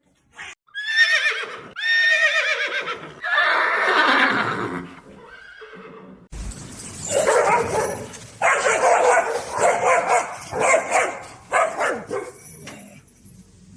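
Farm animal calling loudly: two or three long, high calls falling in pitch, then, after a sudden change about six seconds in, a run of about six shorter calls in quick succession.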